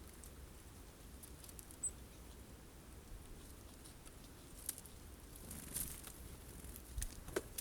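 Faint scattered taps and clicks of birds pecking sunflower seeds at a feeder, with one short high note about two seconds in and a cluster of louder taps near the end.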